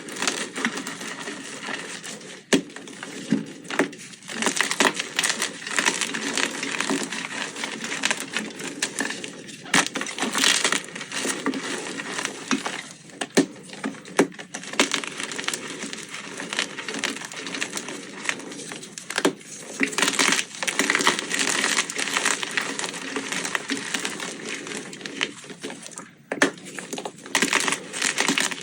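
Blocks of gym chalk being crushed: a dense run of crunching and crumbling, with sharp cracks now and then.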